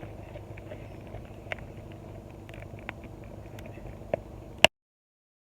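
Wood campfire crackling, with a few sharp pops over steady low background noise. The sound cuts off abruptly with a loud click about four and a half seconds in, leaving dead silence.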